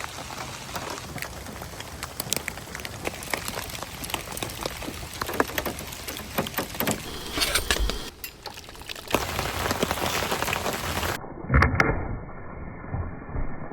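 Steady rain with many individual drops pattering on a surface. The sound shifts abruptly a few times, and about eleven seconds in it turns muffled and dull, with two loud thumps close together.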